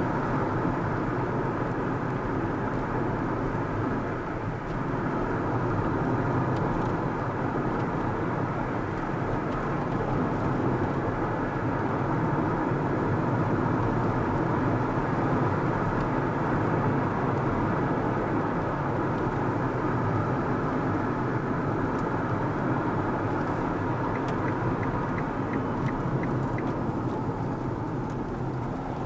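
Steady road noise of a car driving along: engine and tyre noise at a constant pace, with a light, regular ticking near the end.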